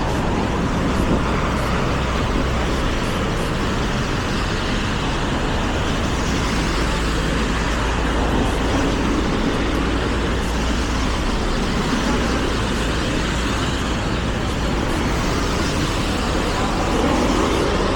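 Steady rushing noise from a mountain-bike ride on snowy city streets, wind rumbling on the camera microphone along with tyre noise, and road traffic in the mix.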